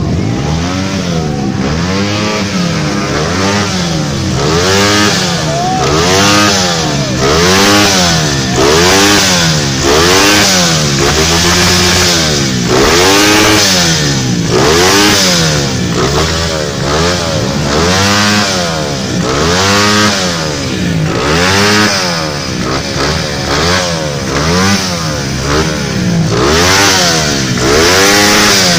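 Tuned motorcycle engine revved over and over, its pitch climbing and dropping about once a second as the throttle is blipped.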